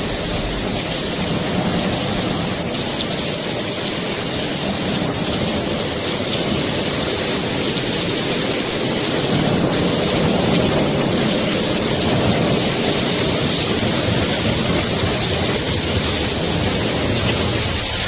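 Heavy rain falling steadily, a dense even hiss, with a low rumble underneath that swells a little midway.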